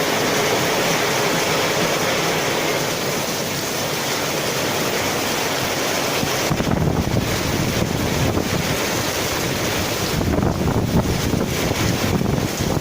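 Heavy rain in a windstorm: a steady rushing hiss of rain, joined about six and a half seconds in by gusts of wind buffeting the microphone with an uneven low rumble.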